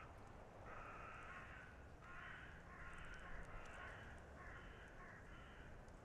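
Faint bird calls: a quick series of about seven short, harsh calls, the first one the longest.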